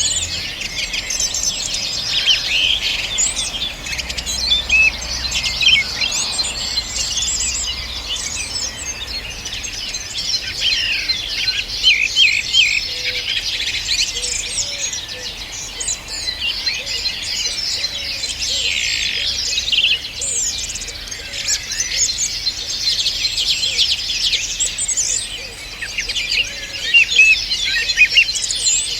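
Many small birds singing at once: a dense, unbroken chorus of high, quick chirps and trills, with some lower, softer notes joining in about halfway through.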